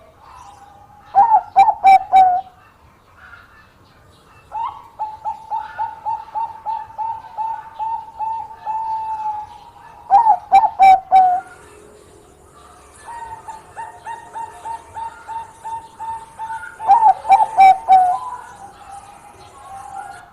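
Perkutut Bangkok (Thai-bred zebra dove) cooing. There are three loud bursts of quick rolling coos, several seconds apart, and between them softer runs of short, even coos at about three to four a second.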